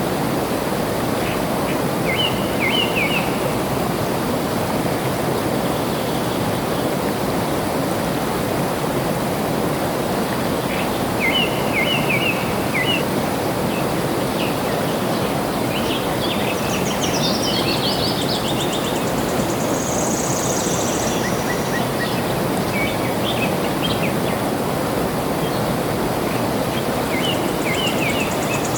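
Steady rush of flowing water, with birds singing over it: a short chirping phrase about two seconds in, again near the middle and near the end, a higher run of trilled notes past the middle, and a high buzzy call shortly after.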